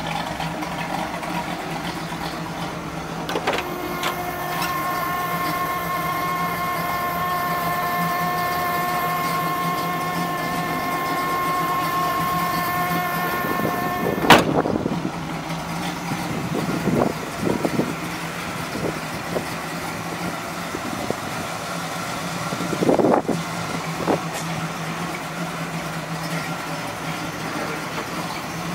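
Pontiac V8 idling steadily. A sharp clunk about halfway through, around when the driver's door stands open, and a few lighter knocks later.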